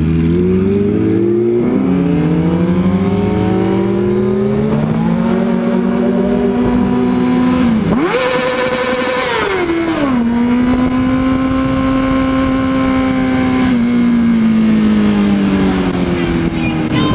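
A high-revving performance engine being driven hard, its pitch climbing and dropping sharply at each gear change. It revs hard near the middle, then settles to a steady cruising pitch.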